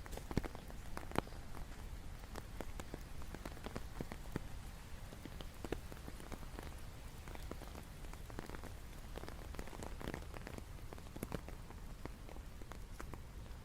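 Rain falling steadily, with many separate drops striking close by amid the wash of rainfall.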